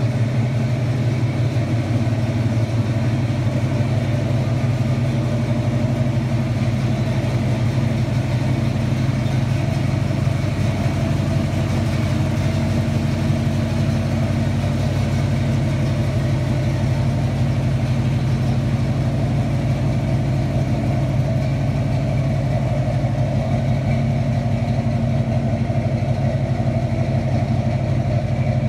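1984 Chevrolet Monte Carlo SS's V8 idling steadily.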